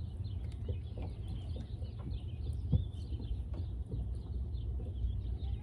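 Birds chirping and chattering, many short calls overlapping, over a steady low rumble, with one sharp knock a little before halfway through.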